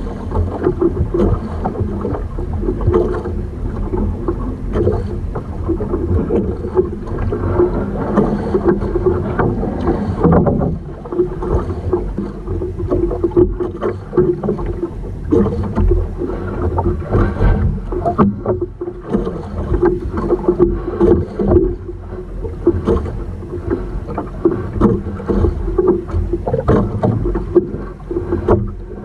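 Wind buffeting the microphone and choppy water splashing and slapping against the hull of a small outrigger boat, with a steady low hum underneath.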